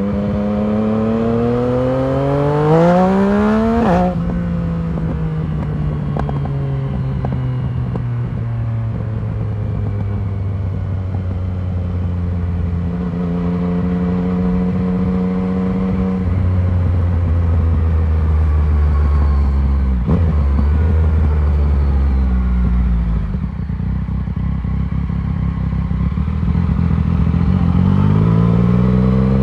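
A 2019 Yamaha MT-09's 847 cc inline three-cylinder engine running through a full Arrow exhaust system while being ridden. The revs climb steeply for about four seconds and drop sharply, then it runs at a lower, slowly changing pitch with a few more steps, and the revs rise again near the end.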